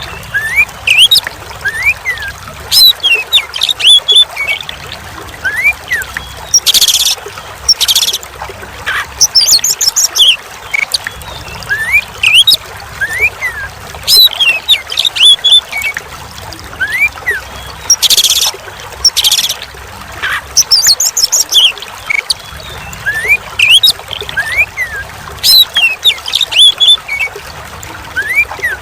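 Oriental magpie-robin (kacer) singing repeated short whistled phrases of rising and falling notes, with high chattering, over steady running water. A few brief loud bursts of splashing water break in, two pairs about a second apart.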